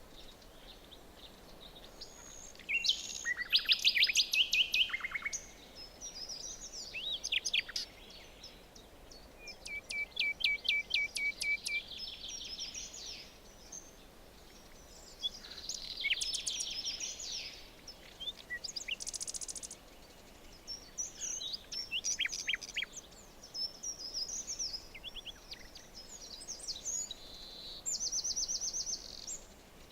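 Songbirds singing in a forest: phrase after phrase of quick chirps and rapid trills from more than one bird, over a faint steady background hiss.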